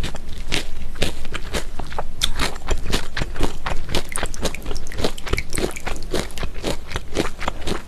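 Close-miked chewing of a mouthful of mulhoe (raw fish, vegetables and somyeon noodles), a quick irregular run of wet clicks and crunches several times a second.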